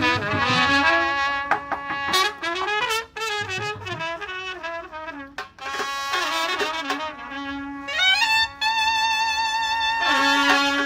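Traditional band music: a loud wind instrument plays a wavering, ornamented melody with sustained held notes, accompanied by drum strokes.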